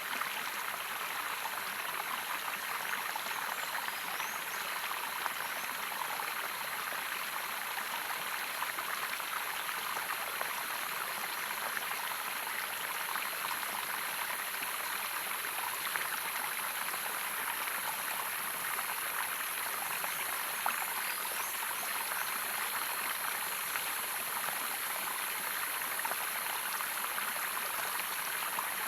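A stream of running water, steady splashing and trickling, with a steady high-pitched hum of insects over it.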